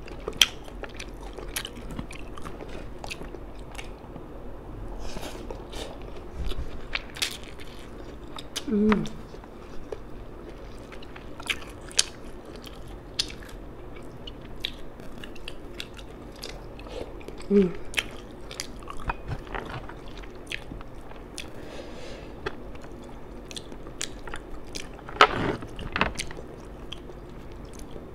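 Close-miked chewing of fish head and rice eaten by hand, with many sharp wet mouth clicks and smacks. There are two short vocal sounds from the eater, about 9 and 17 seconds in, and a louder cluster of smacks near the end.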